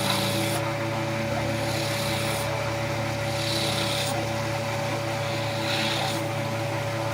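An abrasive rubbing wood in repeated strokes, each a second or two long, over a steady motor hum.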